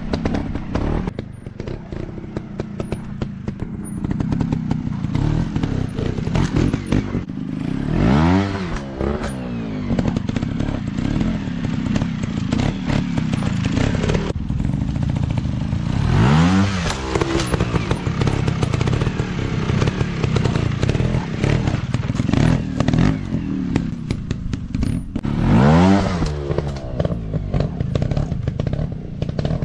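Off-road dirt bike engine running, revved up sharply and back down three times, roughly eight to nine seconds apart, with clattering and knocks between the revs.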